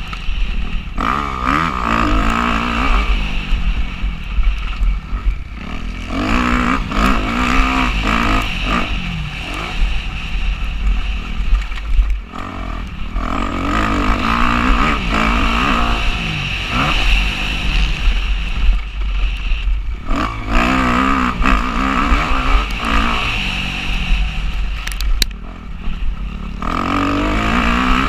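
Motocross bike engine heard from onboard, revving hard and repeatedly climbing in pitch, then dropping off as the throttle is shut and gears change, with a steady wind rumble on the microphone.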